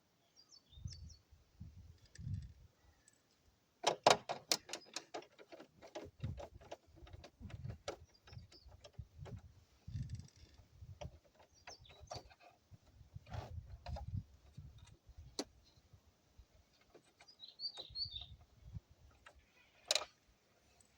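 Small parts being handled: a run of sharp clicks and taps, densest about four seconds in, with dull handling knocks and a few short high chirps or squeaks later on.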